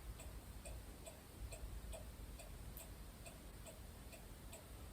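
Faint, steady ticking of a clock, about three ticks a second.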